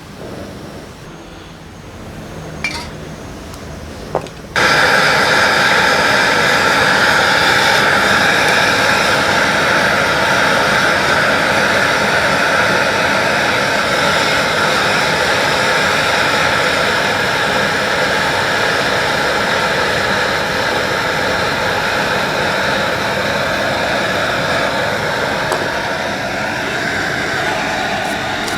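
A few light clinks of small parts, then about four and a half seconds in a steady, loud rush of blown air switches on and keeps going, as when air is blown over freshly washed carburetor parts.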